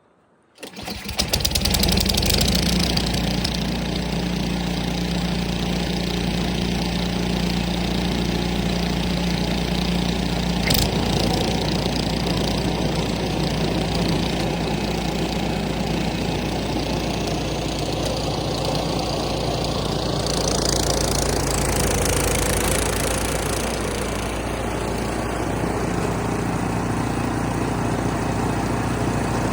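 Ariens snow blower's single-cylinder engine coming in about a second in and then running steadily at working speed, with a brighter rush of noise around two-thirds of the way through.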